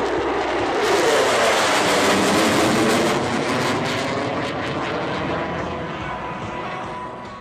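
Military jet aircraft making a loud pass. The engine noise swells about a second in with a falling pitch, then fades away.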